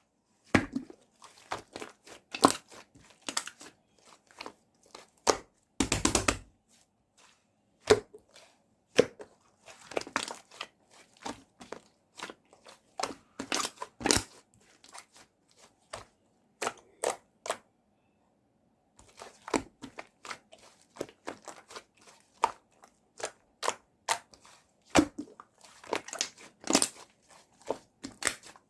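Slime being handled and squished, giving irregular sticky clicks, pops and crackles, with a quiet pause of about two seconds past the middle.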